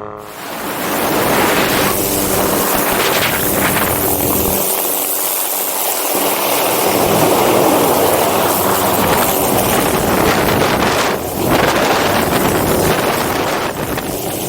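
Loud wind buffeting the microphone of a camera on a flying MD500D helicopter, a steady rushing roar over the helicopter's running turbine and rotor.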